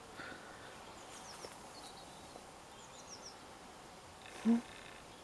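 Faint songbird chirps, a few short runs of quick high falling notes, over a quiet outdoor background. A single brief low voice sound comes about four and a half seconds in.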